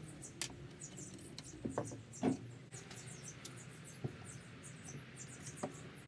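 Workshop handling on a wooden workbench: a scatter of knocks as a wooden frame and a metal bench vise are moved and set down, the loudest about two seconds in. Under them run a low steady hum and many short, faint high-pitched chirps.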